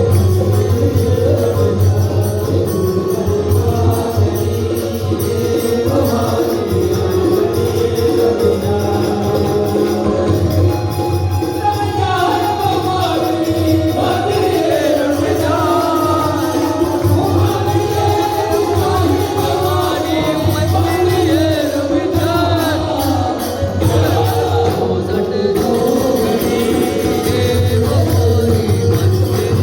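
Hindu devotional bhajan to the goddess: singing with instrumental accompaniment.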